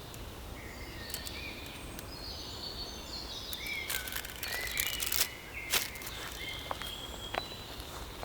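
Outdoor ambience with small birds chirping now and then, a few sharp clicks around the middle.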